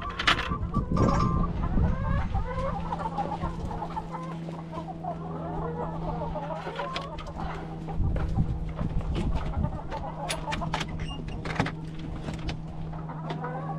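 Hens clucking and chattering among themselves in a chicken coop, many small overlapping calls over a steady low hum, with a few sharp knocks and clicks.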